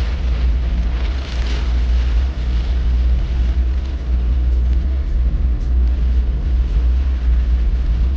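Heavy storm rain with wind buffeting the microphone: a steady rushing hiss over a deep, continuous rumble.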